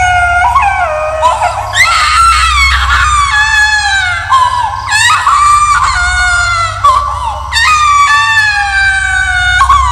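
Eerie high-pitched screaming cries, a horror ghost sound effect: about five long wails, each starting sharply and then sliding slowly down in pitch, over a steady low rumbling drone.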